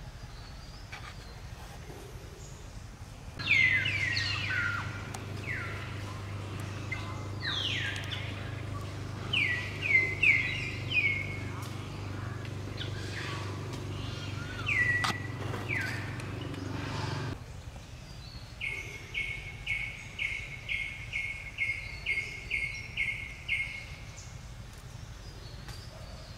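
Birds calling outdoors: a run of sharp, falling chirps over a low steady hum that comes in a few seconds in and cuts off abruptly about fourteen seconds later. Near the end a bird repeats one short chirp about a dozen times, roughly two a second.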